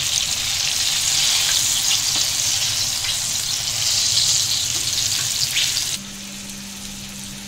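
Coated chicken pieces deep-frying in a pan of hot oil, a steady loud sizzle, with faint scrapes as a slotted spatula lifts the golden, fully fried pieces out. About six seconds in, the sizzle drops abruptly to a much quieter hiss with a steady low hum.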